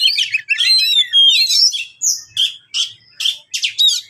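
Oriental magpie-robin (kacer) singing a fast, varied song of high whistles, slurred rising and falling notes and chirps, continuous at first and then in short bursts.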